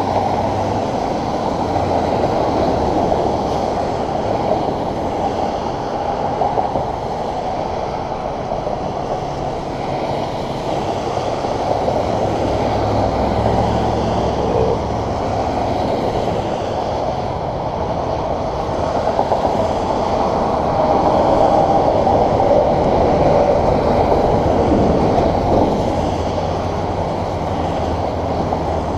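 Steady rushing rumble of riding a bicycle on a wet road: wind on the microphone and tyre noise, louder for a while in the second half.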